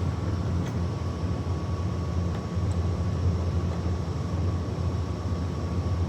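Steady low mechanical hum of running machinery, even throughout, with a thin steady whine above it.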